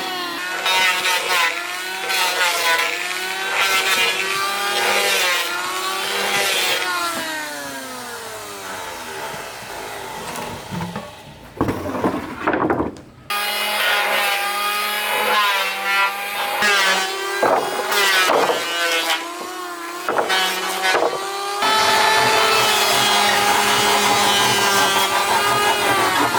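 Power saw cutting wood, its motor pitch sagging as the blade loads up in the cut and climbing again as it frees. It stops briefly about halfway through, then runs on.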